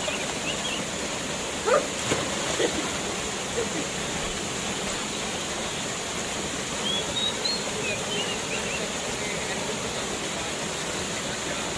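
Steady rushing of a waterfall, with a few faint short sounds over it, the loudest a brief one about two seconds in.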